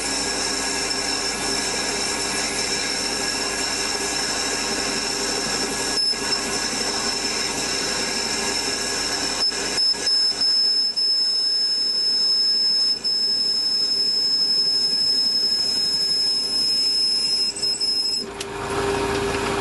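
Metal lathe running with a steady high whine while a 10 mm drill in the drill chuck is fed through the workpiece, with a few clicks along the way. The lathe is switched off near the end and the whine cuts off.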